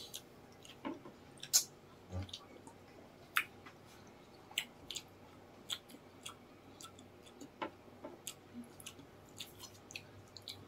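Chewing and crunching of crispy fried chicken skin: sharp crisp cracks at irregular intervals, the loudest about a second and a half in, between softer mouth sounds.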